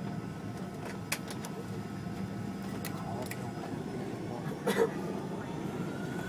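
Steady low hum inside a Fokker 100 airliner's cabin on the ground after landing, with scattered light clicks and a louder knock about five seconds in.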